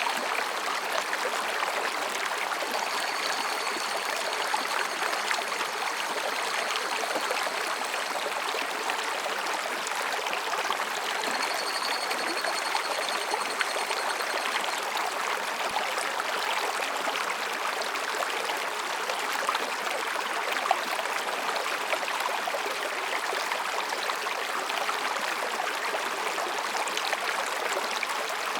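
Mountain stream running over rocks, a steady rush of water. Faint higurashi (evening cicada) calls, a high pulsed trill, trail off at the start and come in twice more for a few seconds each.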